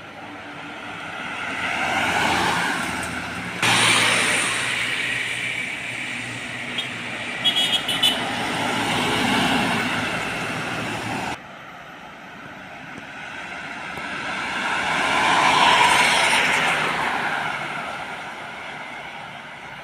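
Trucks passing one after another, each swelling and fading; the sound cuts abruptly twice. A few short, sharp high-pitched sounds come about eight seconds in.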